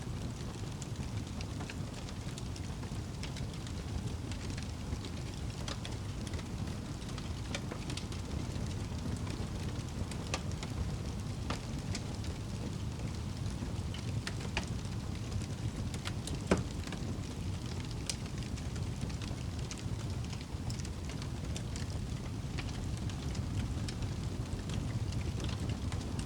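Wood fire burning in a fireplace: a steady low rumble of the flames, with scattered crackles and pops of the burning wood and one sharper pop about two-thirds of the way through.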